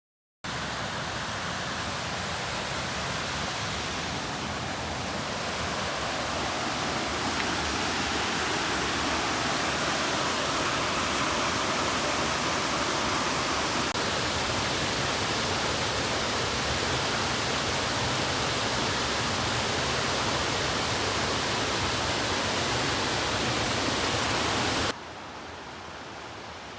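Steady, loud rush of fast-flowing river water. It cuts in abruptly about half a second in and drops to a quieter rush near the end.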